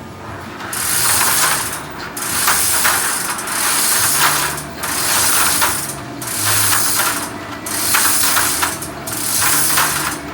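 Ratcheting rigging hoist being worked in repeated strokes: about eight runs of rapid pawl clicking, one roughly every second and a bit.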